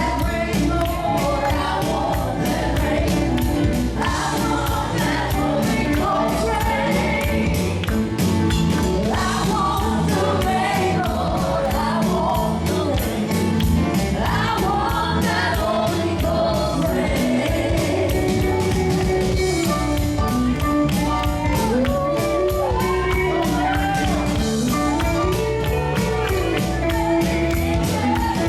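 Live gospel music: singing over a band with a steady fast beat.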